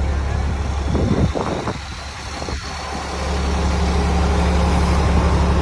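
NIMR armoured vehicle's engine running with a steady low hum. About a second in there is a brief clatter and the engine sound drops away for a moment, then it swells back up from about three seconds in.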